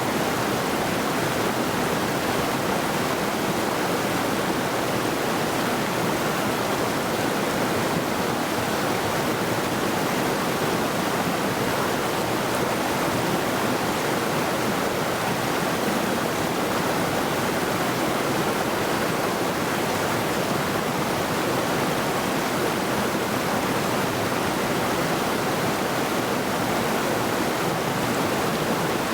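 Mountain river rushing over rocks, a steady full water noise that does not change.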